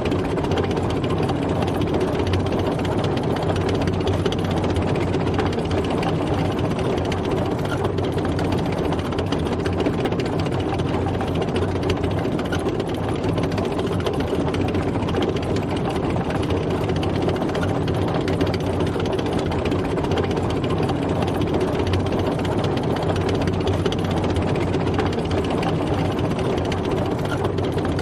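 Tank engine running steadily while the tank drives, a continuous rumble with no change in pace.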